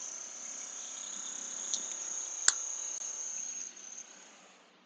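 Cricket trilling steadily on one high note, fading out near the end, with one sharp click about halfway through.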